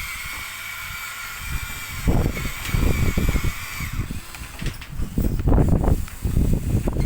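A small electric motor whines steadily, ending about four seconds in. Loud, irregular low rattling and scraping join it from about two seconds in.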